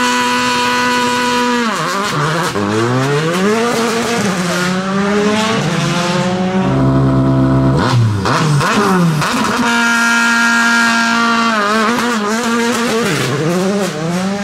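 Rally car engine held at steady high revs, then revving up and dropping again several times. There is a lower, steadier stretch in the middle, and it returns to a steady high rev before rising and falling again near the end.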